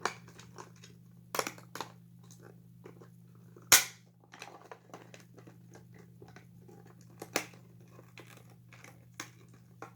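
Clicks and knocks of small plastic toy parts being handled and fitted back together, with one sharp knock about four seconds in.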